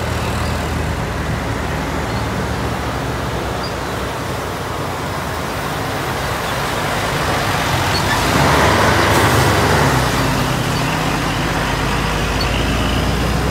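A heavy road vehicle's engine running as it passes, getting louder about eight seconds in, with road and traffic noise.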